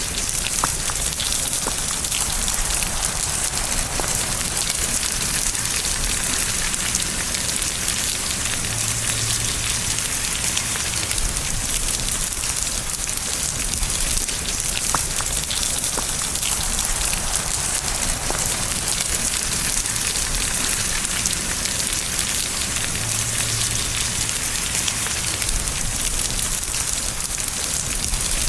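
Steady rain falling on a surface: an even hiss with a single drop ticking out now and then.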